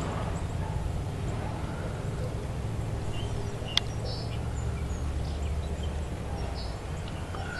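Birds giving scattered short, high chirps over a steady low hum, with one sharp click a little under four seconds in.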